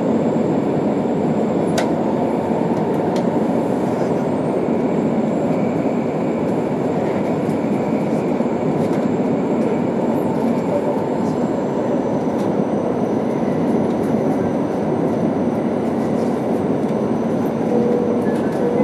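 Passenger-cabin noise of an E2 series Shinkansen running through a tunnel: a steady rumble and rush of wheels, track and air with no let-up.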